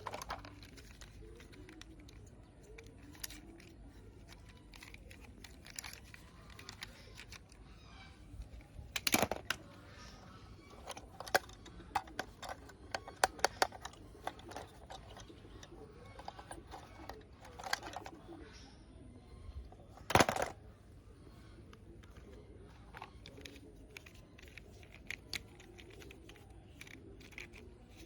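Plastic toys being handled and set down: scattered light clicks and knocks, with two louder clatters, about a third of the way in and again about two-thirds in.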